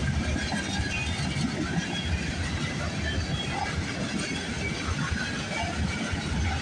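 CSX freight train's gondola cars rolling past on steel wheels, a steady low rumble on the rails.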